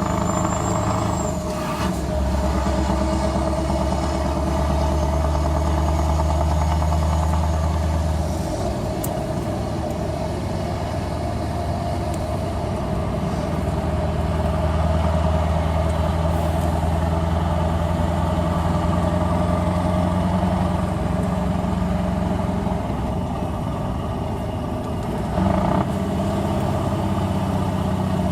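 Scania R500 V8 engine with an open, straight-through exhaust running steadily, its engine note shifting a few times.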